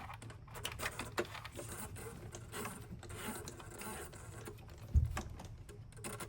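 Irregular clicks and rubbing of plastic and metal parts as the oil filter cartridge, with its new O-ring, is worked back down into its housing, with a dull thump about five seconds in.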